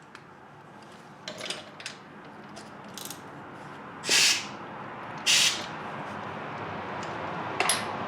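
Metal hand tools clicking and clinking while a stuck engine bolt is worked with a wrench, with two short hissing bursts about a second apart midway through.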